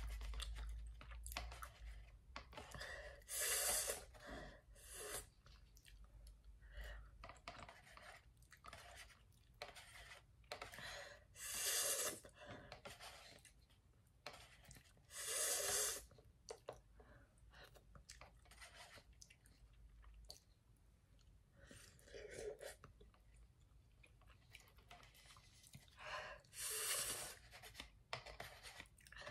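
A person eating instant cup noodles with chopsticks: quiet chewing, broken every few seconds by short, louder bursts of slurping noodles.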